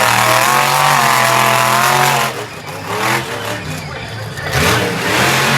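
Monster truck engine revving loudly, its pitch wavering up and down. It eases off after about two seconds and surges again near the end.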